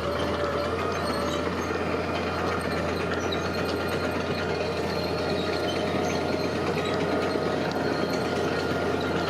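Heavy diesel construction machinery running steadily, a constant low engine drone with a dense, even rattle over it.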